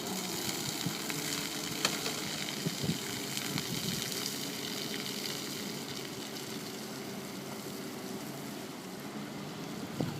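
Seawater rushing and splashing, with a low steady machine hum underneath and a sharp knock about two seconds in.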